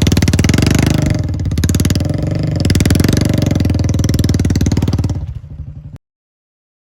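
Royal Enfield Bullet 350's single-cylinder engine running hard, its exhaust beat swelling twice as it is revved. The sound fades out about five seconds in, and the audio cuts off.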